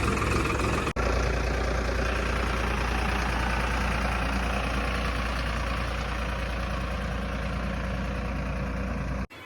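A tractor's diesel engine running steadily, with a brief dropout about a second in; it cuts off suddenly near the end.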